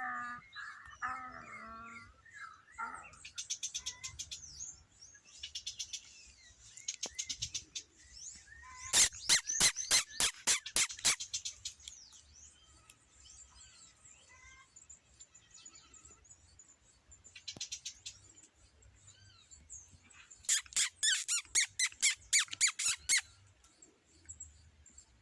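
Bird calls and high chirps, with two runs of rapid, loud, sharp clicks, one about nine seconds in and one near the end.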